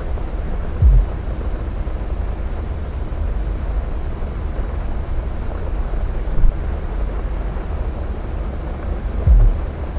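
Steady low rumble of a Boeing 737's jet engines heard at a distance in a snowstorm, with wind on the microphone. Two brief low thumps come about a second in and near the end.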